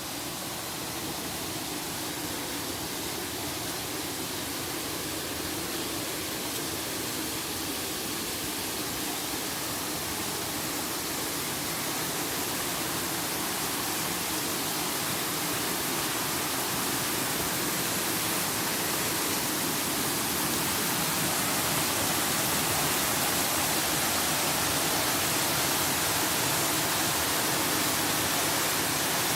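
Waterfall: a steady rush of falling water, slowly growing a little louder.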